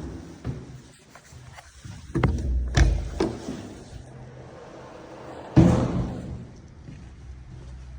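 A few knocks and thumps about two to three seconds in, then one heavier thud, the loudest, about five and a half seconds in.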